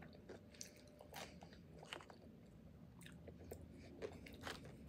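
Faint, close-up chewing of a mouthful of pupusa with pickled jalapeño, with scattered soft mouth clicks and wet smacks.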